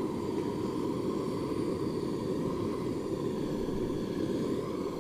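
Steady wind noise buffeting the microphone, a constant low rushing with no breaks.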